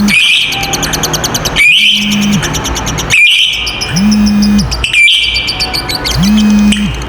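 Lovebird giving its long rapid chattering song (ngekek), a fast run of high chirps broken by a sweeping call about every second and a half. A low tone rises in, holds and fades under each repeat, like a looped backing track.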